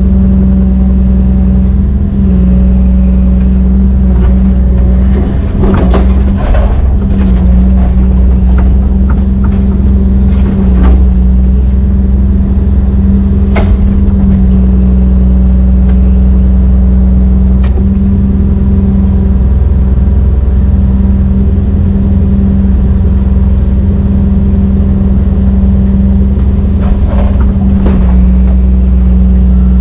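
Brøyt X21 excavator's diesel engine running steadily under load, with a few short knocks from the machine now and then.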